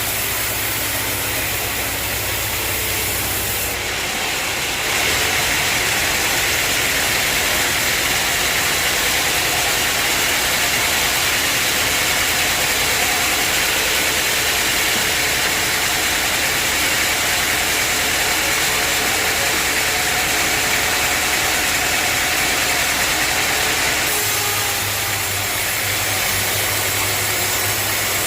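Sawmill bandsaw running steadily, getting louder and higher-pitched from about four seconds in until near the end, as the blade cuts through a log.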